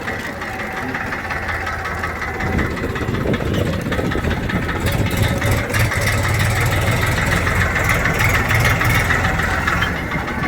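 Farmtrac tractor's diesel engine running steadily, growing louder about two and a half seconds in.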